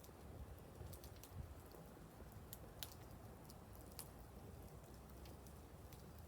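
Wood fire crackling faintly: irregular sharp pops and ticks over a low steady rumble, two louder pops a little after halfway.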